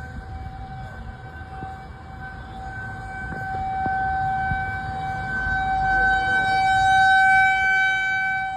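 Outdoor tornado warning siren sounding a steady wail over low rumbling noise. It swells louder midway and eases off slightly near the end.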